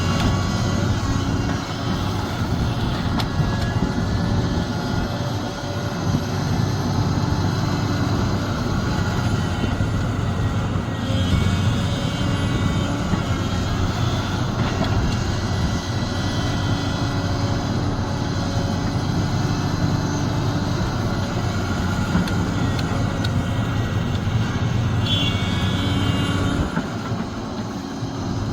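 Sumitomo SH370LHD-6 excavator's diesel engine running steadily, its note shifting every few seconds as the load changes.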